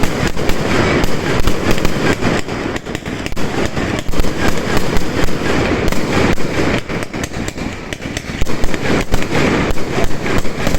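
Fireworks going off in a dense barrage: sharp bangs and crackles several times a second, without a break.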